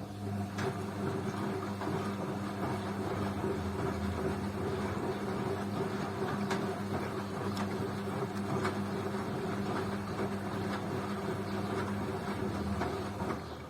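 BEKO washing machine's motor turning the drum for one tumble of about thirteen seconds: a steady hum with a few sharp clicks, starting and stopping abruptly.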